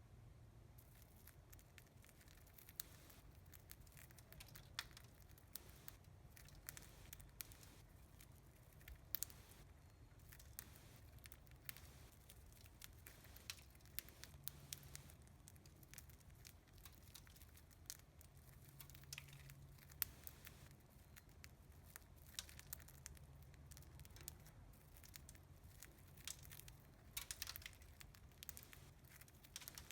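Budgies husking millet seeds from a millet spray, a faint irregular run of small sharp clicks and cracks over a low hum.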